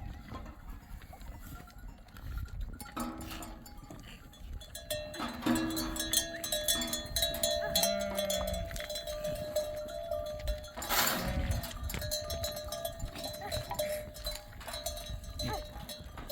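Sheep and goats bleating now and then, with their bells clinking and ringing as the flock moves.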